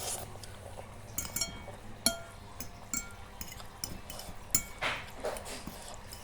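Cutlery clinking against a dish while eating noodles: a string of sharp clicks, several ringing briefly.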